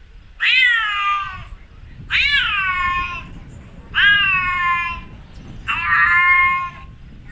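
A cat meowing four times in a row, about two seconds apart. Each meow is long and drawn out; the first three rise quickly and then fall in pitch, and the last is steadier.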